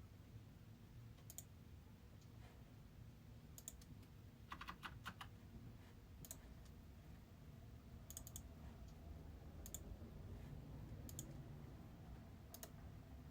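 Near silence with a low steady hum and scattered faint clicks, like keys on a computer keyboard, with a quick run of several clicks about five seconds in.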